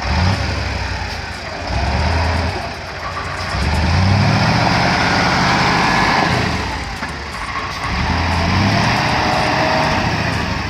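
Heavy truck's diesel engine running, revving up and easing off several times.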